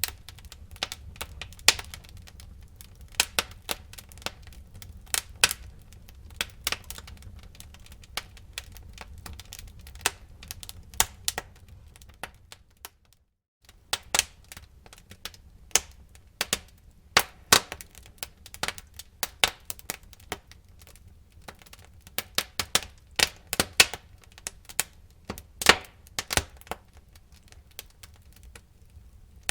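Wood fire crackling in a fireplace: irregular sharp pops and cracks over a low rumble of flame. The sound drops out completely for about half a second around the middle.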